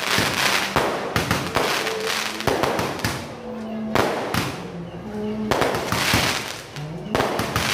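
Small aerial fireworks launching and bursting in quick succession: a dense, irregular run of sharp bangs and crackles, sometimes several in a second.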